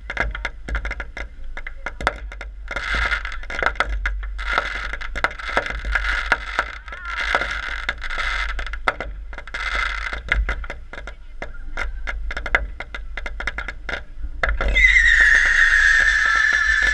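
Fireworks crackling: a dense run of sharp pops and crackles with bursts of fizzing hiss. Near the end a loud firework whistle starts and falls slightly in pitch.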